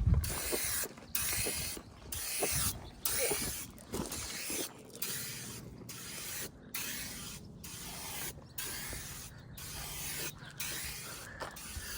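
Aerosol spray paint can with a wide flared fan tip spraying in repeated strokes, a steady hiss that cuts off briefly about once a second between passes.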